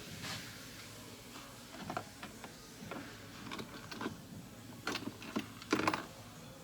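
Interior trim pieces and parts being handled and fitted: scattered light clicks and rattles, with a louder clatter about six seconds in.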